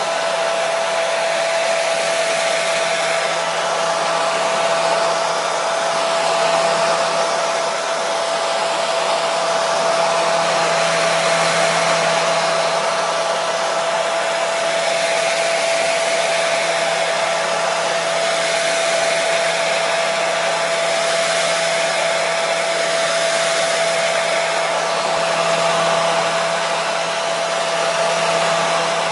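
Hair dryer running continuously at one steady setting: an even rush of blowing air with a steady whine.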